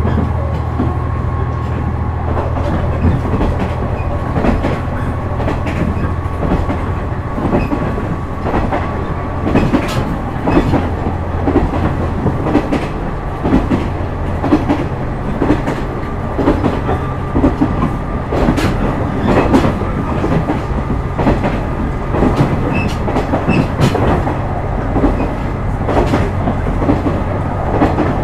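KiHa 126 series diesel railcar running at speed: its engine hums steadily underneath while the wheels click over the rail joints in repeated rhythmic groups.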